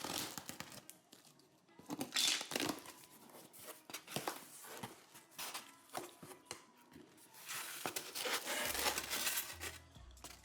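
Cardboard shipping box being opened: tape tearing and packing material crumpling and rustling in irregular bursts, with a few sharper clicks.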